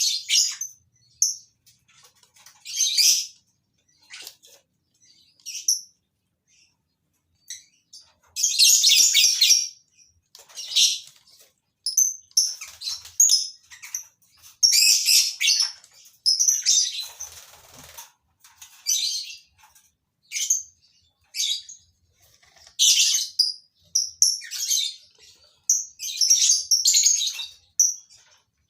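Colony of lovebirds chirping in short, shrill calls that come in irregular clusters with brief gaps between them.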